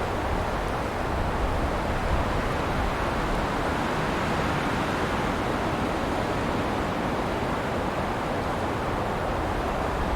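Wind blowing through pine trees: a steady rushing of needles and boughs that swells and eases slightly, with a low rumble of wind underneath.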